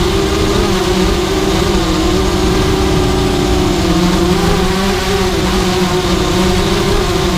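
FPV racing quadcopter's electric motors and propellers running in flight, a steady whir whose pitch wavers up and down with the throttle, over rumbling wind noise.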